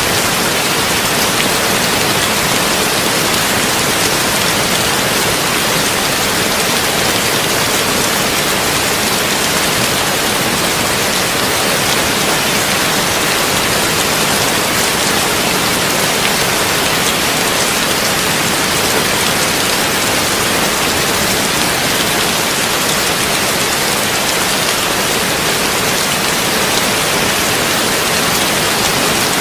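Heavy rain drumming steadily on a tin roof, a dense even patter of drops with no thunder.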